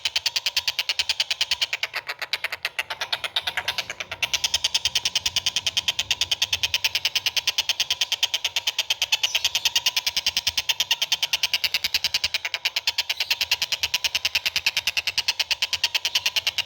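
A bird giving a fast, evenly repeated chattering call, about seven high notes a second, weakening briefly a couple of seconds in before carrying on.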